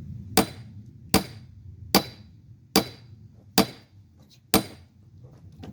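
Sledgehammer striking a steel splitting wedge driven into a log: six hard blows, about one every 0.8 seconds, each with a short metallic ring.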